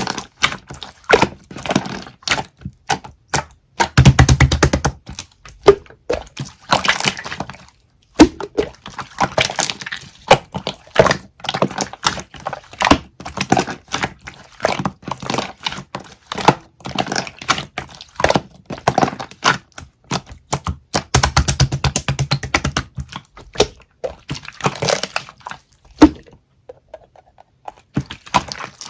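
Pink pearl slime being squeezed and pressed by hand, making a continual run of sharp clicks and crackling pops, with two spells of very rapid clicking as it is worked faster, and a short lull near the end.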